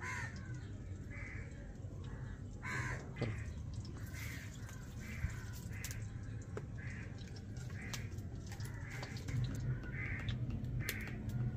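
A bird calling over and over, a short call about once a second, over a steady low hum, with a few sharp clicks.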